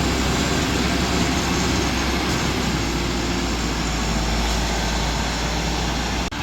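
Tractor engine running steadily under work, a continuous low hum with broad noise over it; the sound dips out briefly near the end.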